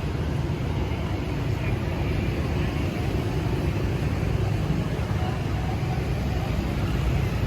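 Steady city-street ambience: a continuous low traffic rumble with faint voices mixed in.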